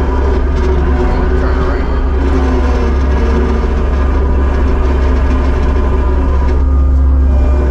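Kubota SVL75-2 compact track loader's diesel engine running steadily.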